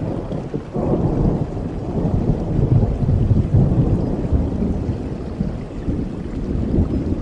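A long rolling rumble of thunder that swells about a second in and slowly dies away, over steady rain.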